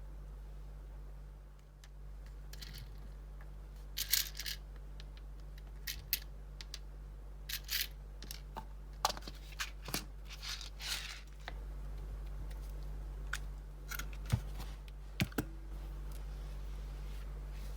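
Scattered small clicks and short rustles of hands handling crafting materials, at irregular intervals over a steady low hum.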